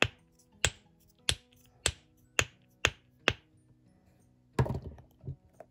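Pop Snappers silicone fidget toy being snapped: seven sharp pops about every half second, then a brief rougher clatter about four and a half seconds in.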